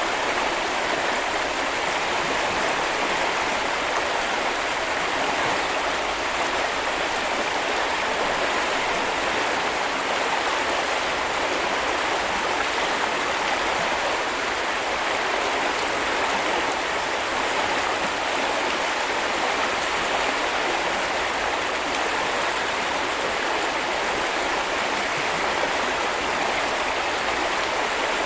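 Small river or brook running over stones: a steady, even rush of flowing water with no change throughout.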